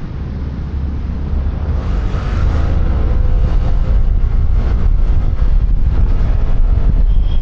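Wind rumble on a helmet-mounted microphone mixed with the running of a QJMotor Fortress 160 scooter on the move. It grows louder over the first three seconds, then holds steady.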